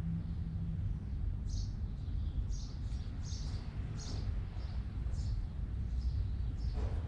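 Small birds chirping: short, high chirps repeating irregularly over a steady low background rumble.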